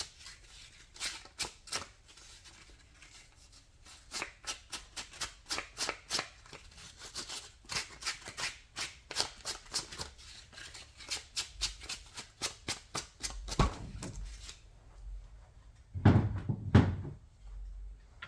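Hand scraping or sanding strokes on a painted surface, a run of short rasping strokes at about three a second with brief pauses. Later come a single knock and then two louder knocks, as the tool or workpiece is handled.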